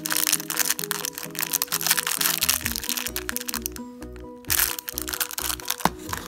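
A clear plastic candy bag crinkling as it is handled, heaviest in the first couple of seconds and again briefly about four and a half seconds in, over background music with a simple melody.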